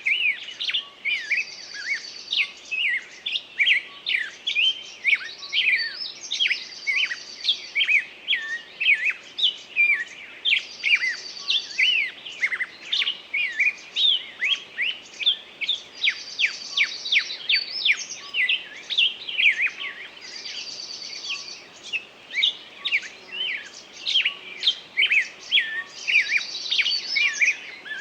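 Songbird singing: a continuous run of quick chirps and sweeping notes, broken about every five seconds by a higher buzzy trill.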